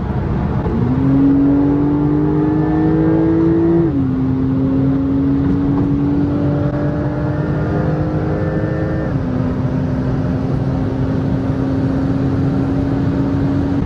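Porsche 911 Turbo S twin-turbo flat-six under hard acceleration, heard from inside the cabin: the engine note climbs, drops with quick upshifts about 4 and 9 seconds in, then holds a steady note at motorway speed.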